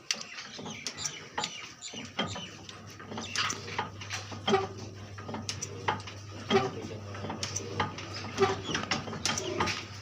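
Irregular metallic clinks and knocks of metal parts or tools being handled, with a low steady hum coming in about two seconds in.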